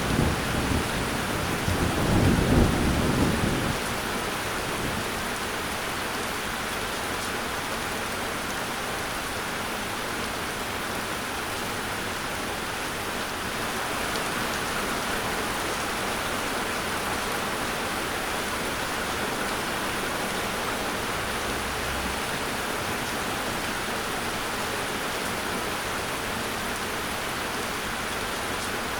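Steady rain falling, with a low rumble of thunder in the first few seconds that dies away about four seconds in.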